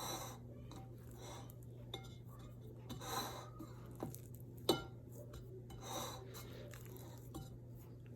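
Faint handling sounds of hands stretching and folding sourdough pizza dough in its container: soft swells about every three seconds, a sharper click of the container about halfway through, and a few small ticks, over a steady low hum.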